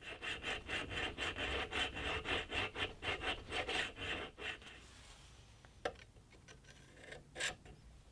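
A hand tool scrapes the soft-steel pommel in quick back-and-forth strokes, about five a second, like filing or hand-sawing, and stops about five seconds in. Two light clicks follow near the end.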